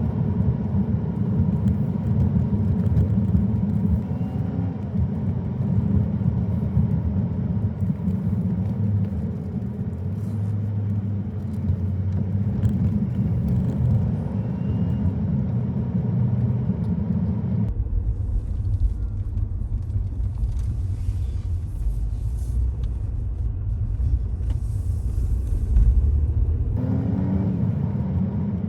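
A car being driven, with a steady low rumble of road and engine noise. Between about 18 and 27 seconds in, the sound turns abruptly deeper and duller, then switches back.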